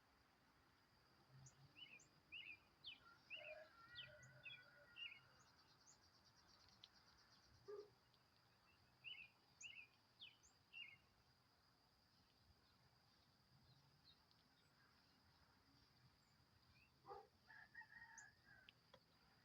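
Faint songbirds chirping: scattered short chirps in small clusters, a brief rapid trill, and a few lower calls near the end. A steady high-pitched tone runs underneath.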